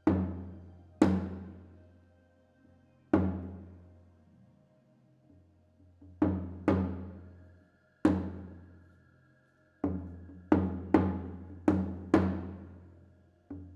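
A deep, pitched drum struck about a dozen times as slow ritual music. Each stroke rings out and fades, and the strokes come sparse at first, then quicken into a run near the end, over a faint held tone.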